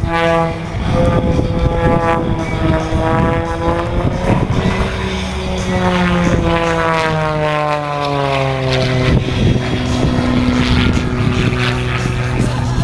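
Single-engine aerobatic propeller plane flying a display, its engine and propeller drone shifting in pitch. About halfway through there is a long falling glide as it passes by.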